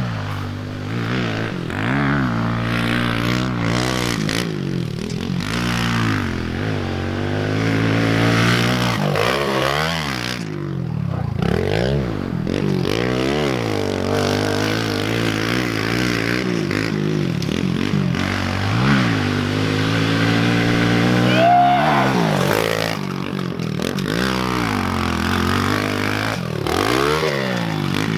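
Pit bike engine being ridden hard on a lap, its note rising and falling again and again as the throttle is opened and closed.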